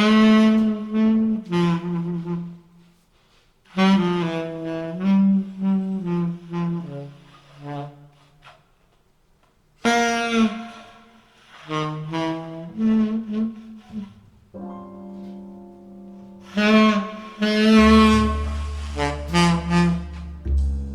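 Tenor saxophone playing slow ballad phrases with pauses between them, reproduced from a recording through ATC SCM 11 bookshelf loudspeakers. Sustained piano chords enter about two-thirds of the way through, and a bass line comes in near the end.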